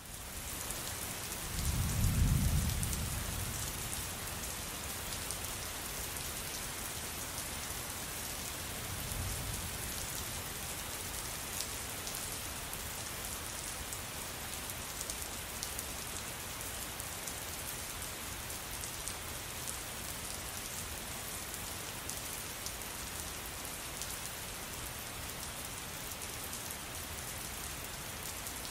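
Steady heavy rain falling, a dense even hiss with fine drop patter. Thunder rumbles low about two seconds in, the loudest moment, and a fainter rumble follows around nine seconds.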